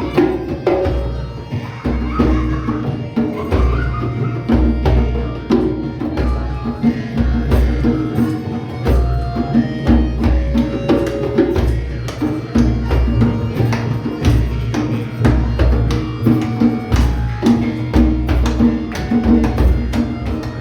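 Live ethno-folk jam music: hand percussion strikes over a low pulsing drone that repeats about once a second, with melodic lines from instruments or voice above.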